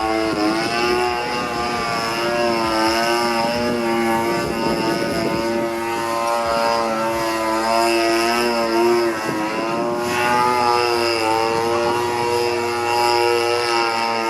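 26cc two-stroke gasoline engine and propeller of a 62-inch Katana fun-fly RC aerobatic airplane running in flight. The engine-and-propeller note rises and falls over and over as the plane manoeuvres.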